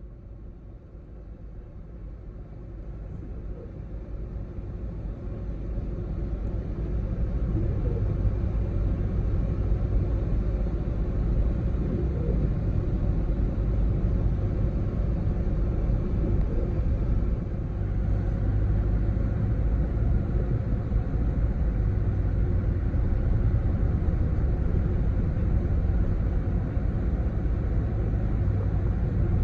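Steady low rumble of a car driving, heard from inside the cabin, building over the first several seconds as it gathers speed and then holding steady.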